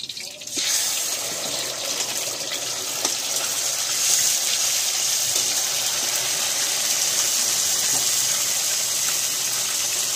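Wet ground masala paste hitting hot oil in a kadhai and sizzling: a steady, loud hiss that starts abruptly about half a second in and keeps going as the spices fry.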